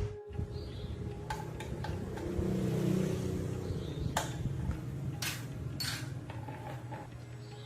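A steady low mechanical hum with a few sharp knocks and clicks scattered through it.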